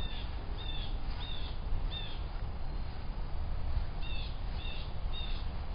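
A bird calling over and over: seven short, high chirps about two-thirds of a second apart, with a gap of about two seconds in the middle, over a steady low rumble.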